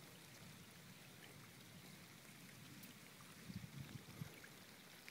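Faint rain falling, a light even hiss with scattered ticks of drops, and a few soft low bumps about three and a half seconds in.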